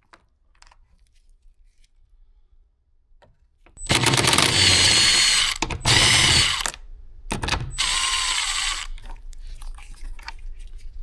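Cordless drill-driver backing out the door panel's 5 mm hex screws. It runs in four bursts of varying length, its motor whine rising and falling in pitch, after a few seconds of faint clicks.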